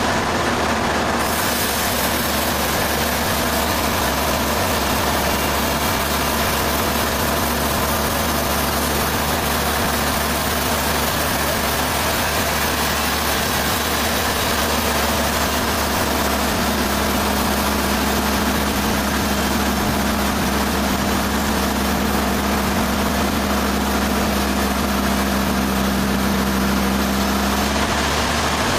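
Sawmill machinery running steadily: a low engine drone under a loud, even hiss. About halfway through, a steady low hum joins in and stops shortly before the end.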